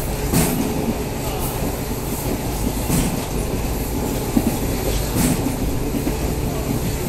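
ICF passenger coach running at speed: a steady rumble of wheels on rail with rushing air, and a few sharp clacks as the wheels cross rail joints.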